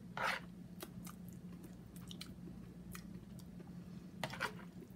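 A person chewing a ration biscuit dipped in broth: faint, irregular short mouth sounds. Louder ones come right at the start and about four seconds in.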